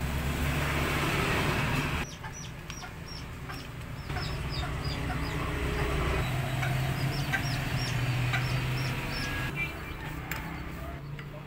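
Birds chirping in short, high calls repeated many times, over a low steady hum that drops away about two seconds in and comes back.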